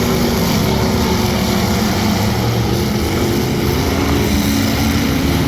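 Several demolition derby car engines running loudly at once, their pitches rising and falling as they rev.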